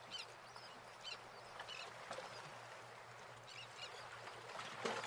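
Faint bird chirps, short calls repeated every second or so, over a low steady hum.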